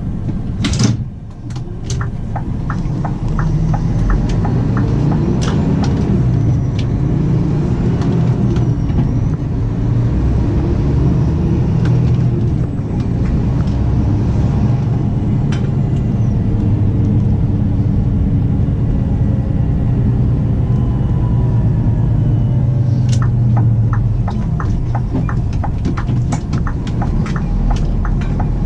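Scania P360 truck's diesel engine pulling under load, its revs rising and falling as it is driven through the gears of a manual gearbox. There is a sharp clack about a second in and a run of light rattling clicks near the end.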